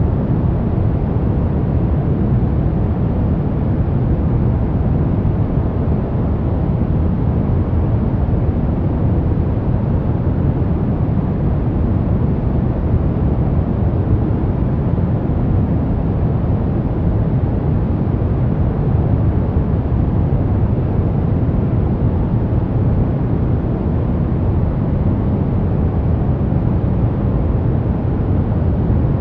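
Continuous white-noise track for baby sleep, a steady deep hiss with most of its weight in the bass and little in the highs, unchanging throughout.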